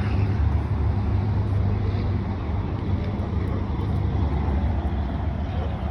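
A steady low rumble with an even hiss above it, with no distinct events.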